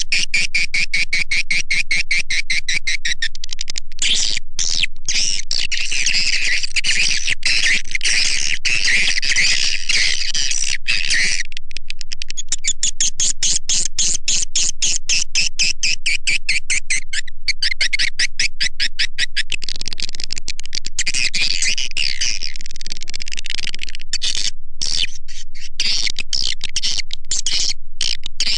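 Swiftlet call lure: a recording of swiftlets twittering in rapid, dense chirps at a steady loud level, played to attract swiftlets to a swiftlet house.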